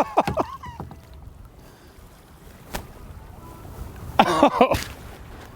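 Wind on the microphone and water around a kayak, a low rumble that slowly builds, with a click near the middle. Two short bursts of falling cries stand out, one at the very start and one about four seconds in.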